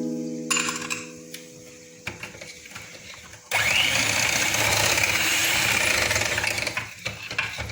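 Electric hand beater starts about halfway through with a sudden onset and runs with a steady motor whine for about three and a half seconds as it mixes cake batter in a bowl, then stops shortly before the end.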